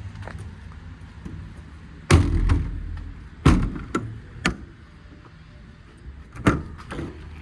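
Metal service-body compartment doors being worked: one shuts with a heavy slam about two seconds in, followed by a sharp knock and several latch clunks and clicks as the next compartment is opened.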